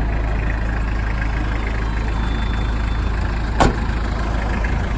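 Toyota 2C naturally aspirated four-cylinder diesel in a 1990 Townace truck idling steadily, with a single sharp click about three and a half seconds in.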